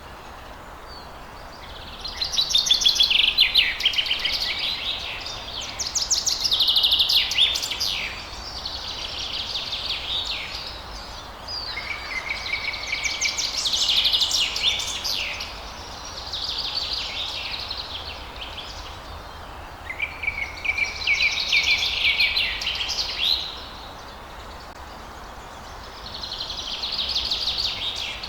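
Songbirds singing at dawn: repeated high, quick-noted phrases a few seconds long, separated by short pauses, over a steady background hiss.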